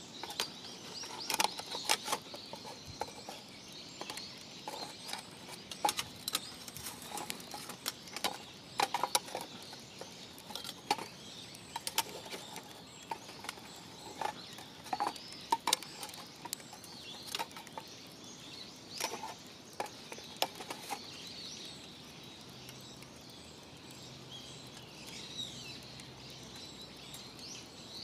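Campfire crackling with frequent irregular sharp pops, which thin out after about twenty seconds; birds chirp faintly near the end.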